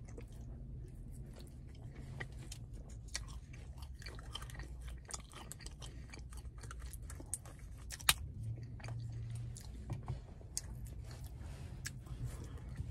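A person chewing a soft, buttery pretzel close to the microphone: irregular small wet clicks and smacks, with one sharper click about eight seconds in, over a steady low hum.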